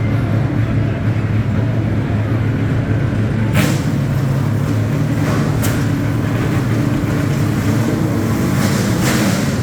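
Race car engines idling and running at low speed as the cars roll out, a steady low drone, with a few brief sharper noises about three and a half, five and a half and nine seconds in.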